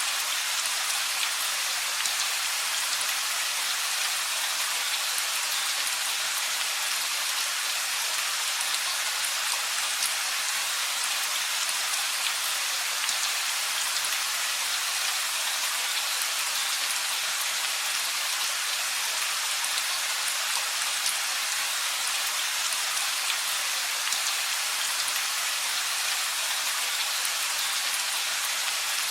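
Steady rain falling, an even hiss with fine drop patter and no thunder.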